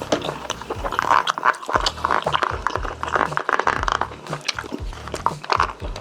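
Close-miked chewing and wet mouth noises of a person eating Korean braised chicken (jjimdak), with many quick clicks and smacks.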